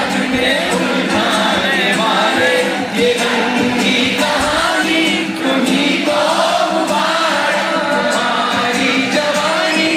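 Live concert music with many voices singing together, a crowd singing along.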